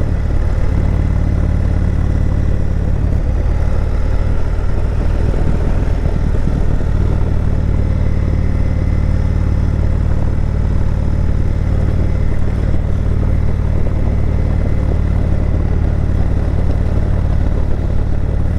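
Indian Chieftain Dark Horse motorcycle's V-twin engine running under way, a steady low engine note whose pitch wavers between about three and seven seconds in and then settles again.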